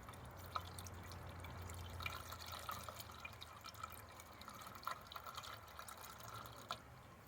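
Faint water dripping and trickling, with scattered small ticks.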